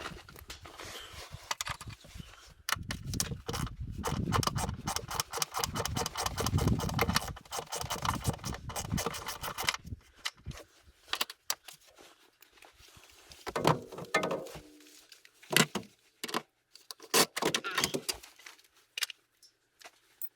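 Hand tools and loose metal parts clicking and rattling while the vehicle's drive belt is being changed: a dense run of rapid clicks and rattles for the first half, then separate knocks and clinks.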